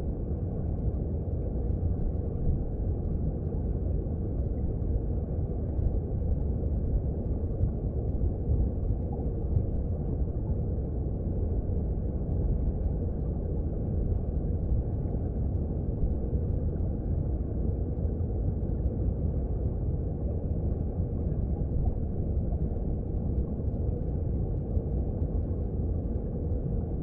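Mountain stream heard underwater: a steady, deep-pitched rush of flowing water that goes on without a break.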